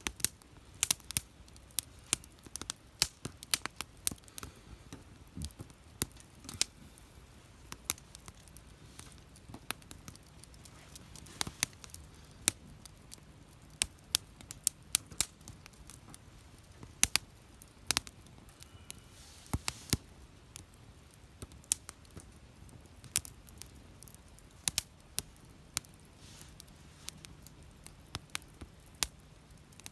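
Wood fire crackling: irregular sharp pops and snaps, several a second, some much louder than the rest.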